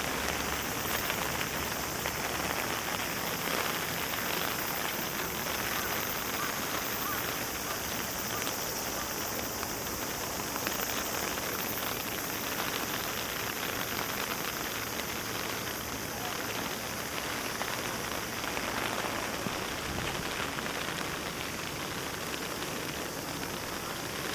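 Steady heavy rain after a typhoon, an even hiss of falling rain dotted with many small drop ticks.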